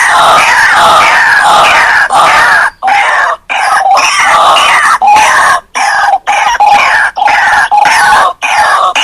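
White-breasted waterhens (ruak-ruak) calling: loud, harsh, rapidly repeated notes from several overlapping voices in a continuous chorus. The calls are broken by a few sudden short gaps.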